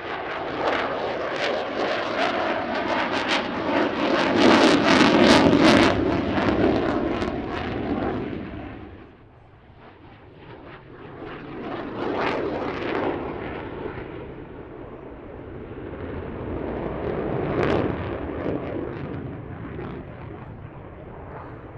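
Aircraft flying a low pass: a roar that builds to its loudest about five seconds in, with a crackling edge, fades by about nine seconds, then swells again twice.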